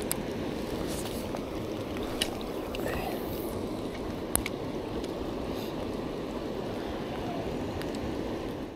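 Steady rain falling, with a few sharp ticks of drops landing close by.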